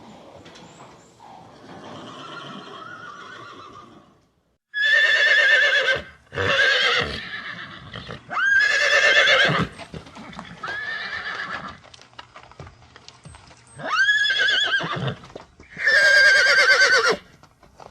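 Horse whinnying: about six loud neighs with a wavering pitch, each about a second long, beginning about five seconds in after a few seconds of quieter sound.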